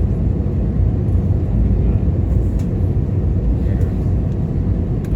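Steady low rumble inside an Airbus A321-211's cabin, its CFM56 engines running at idle while it waits for takeoff.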